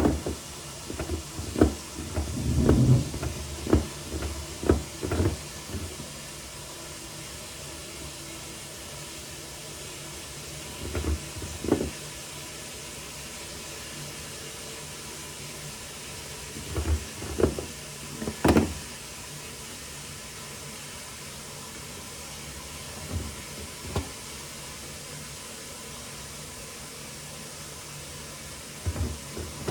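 Water running steadily into a bucket, a low even hiss. Knocks and clunks from the bucket being handled come in a cluster over the first few seconds, then singly now and then.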